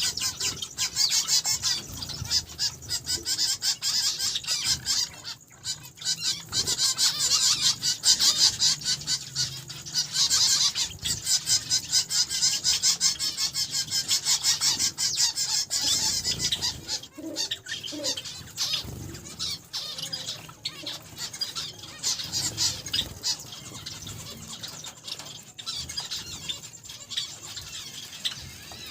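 A flock of small cage finches (zebra finches, Java sparrows, Gouldian and Bengalese finches) chirping and calling in a dense, rapid chatter that thins out a little after the middle.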